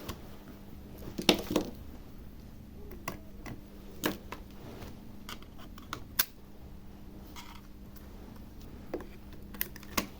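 Scattered light clicks and taps of small hand tools and plastic parts being handled during a tablet teardown, a few seconds apart, with a faint steady hum behind them.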